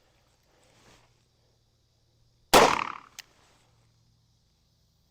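A single shot from a Taurus .44 Magnum revolver with a 6-inch, partly ported barrel, firing a light-loaded .44 Special 240-grain cartridge, about two and a half seconds in. The shot rings out for about half a second, and a short sharp tick follows a moment later.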